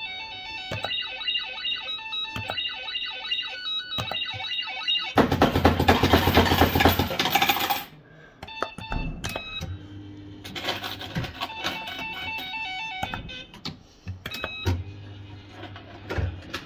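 Bell-Fruit FireCracker fruit machine playing electronic beeping jingles and sound effects. A loud rattling, noisy burst about five seconds in lasts nearly three seconds before the jingles resume.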